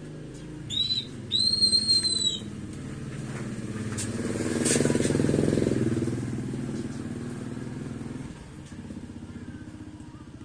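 A bird gives two short, high calls near the start, then a motor vehicle's engine passes by, growing louder to a peak in the middle and fading away.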